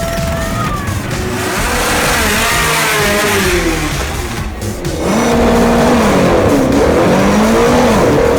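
A vehicle engine revving up and down again and again, its pitch rising and falling in arcs, getting louder about five seconds in. Music plays underneath.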